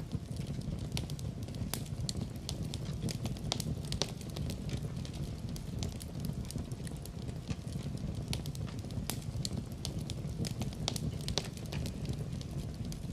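Wood fire burning in a fireplace: a steady low rumble of the flames, with frequent sharp crackles and pops scattered irregularly throughout.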